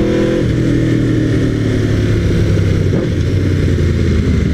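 Aprilia RSV4R's V4 engine through a GPR Thunder Slash exhaust while riding. The engine note climbs, drops with an upshift just under half a second in, then pulls on at a steadier, slowly falling pitch, with wind rushing over the microphone.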